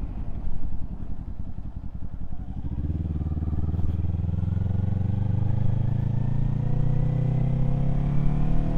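Kawasaki Z400 parallel-twin motorcycle engine, running low and soft for the first few seconds, then about three seconds in pulling away and accelerating steadily, its pitch rising slowly.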